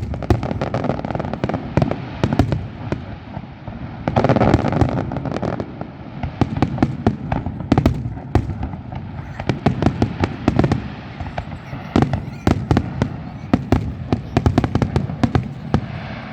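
Fireworks display: a rapid, continuous string of bangs and crackling pops, with a louder, denser barrage about four seconds in.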